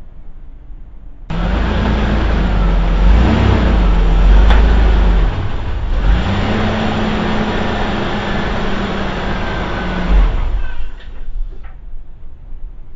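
A car engine running, its pitch rising and falling twice as it is revved, starting suddenly about a second in and cutting off shortly before the end.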